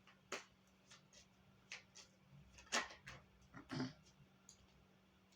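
Faint, scattered taps and light clicks of tarot cards being handled as the next card is drawn and laid down, over a faint steady hum.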